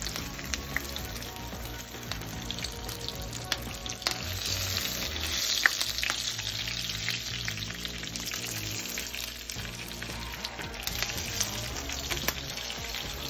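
Breaded green tomato slices frying in hot coconut oil in a skillet: a steady crackling sizzle that swells for a few seconds in the middle, with a few sharp clicks.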